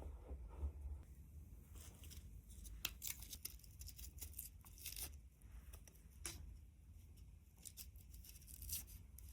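Faint, irregular crisp tearing and scraping noises, a scatter of short strokes, over a low steady rumble.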